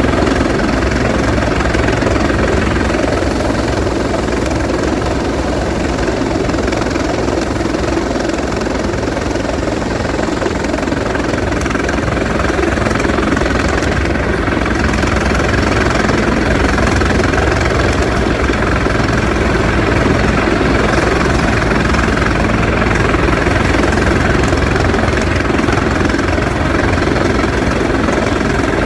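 Bell 412EP twin-turbine helicopter running steadily, turbine whine and rotor beat blended into a loud, even drone.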